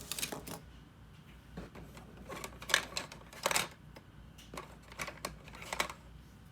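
Pen or pencil strokes scratching on paper in short bursts, some quick and some longer, with brief pauses between them.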